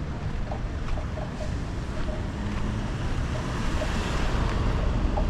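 Ocean surf washing onto a beach, swelling about four seconds in, with wind buffeting the microphone.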